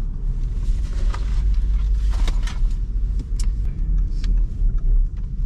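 Car driving, heard from inside the cabin: a steady low engine and road rumble with scattered short clicks and ticks over it.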